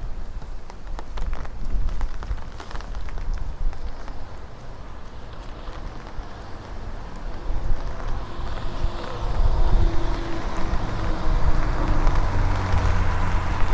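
Street traffic: from about eight seconds in, a vehicle's engine and tyre noise builds as it passes close, over low wind rumble on the microphone.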